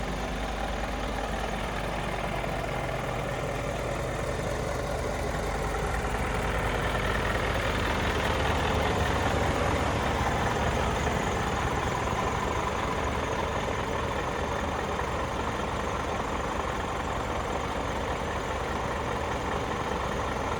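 Scania R490 tractor unit's 13-litre straight-six diesel idling steadily, growing a little louder for a few seconds near the middle.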